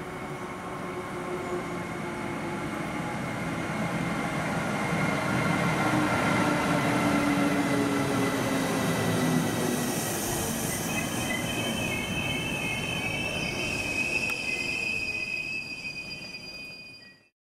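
Siemens Vectron electric locomotive and its passenger coaches running along the platform, growing louder as the locomotive draws level. In the second half, high steady squeals from the wheels and brakes join in as the train slows into the station. The sound cuts off abruptly near the end.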